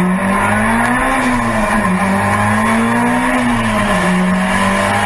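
Car engine pulling hard at high revs, its pitch climbing and falling back twice as the throttle is worked through the bends.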